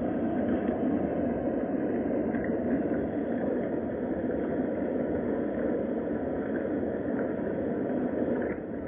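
Steady rain, an even dense hiss with faint scattered ticks, dropping slightly in level near the end.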